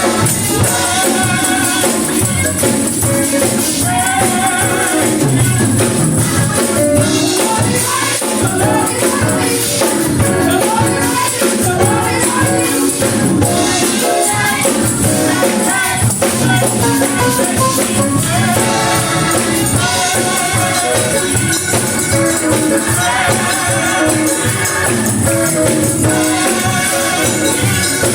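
Gospel music with singing over a steady, dense accompaniment and a shaking tambourine.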